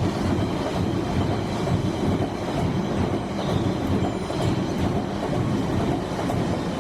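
London Underground Central line train running past on the track: a steady, loud rumble with a faint high wheel squeal above it.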